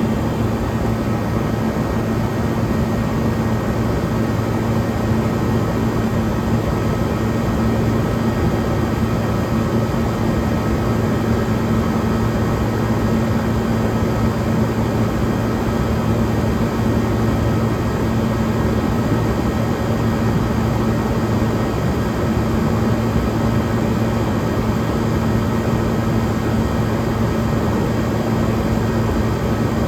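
1978 Comfort-Aire Quietmaster 29,000 BTU window air conditioner running on high cool: a loud, steady rush of fan air over a constant electrical hum.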